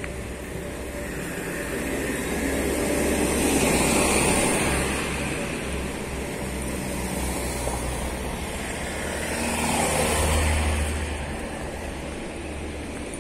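Two cars passing close by, one after the other, each swelling and fading with a low engine hum. The first is loudest about four seconds in and the second about ten seconds in.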